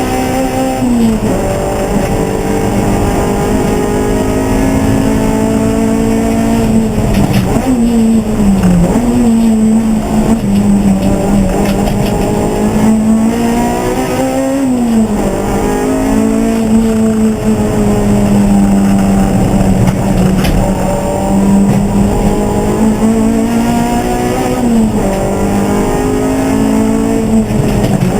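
Race car engine running hard and loud, holding a steady note for long stretches. Its pitch dips and climbs back several times, as the revs fall and rise again.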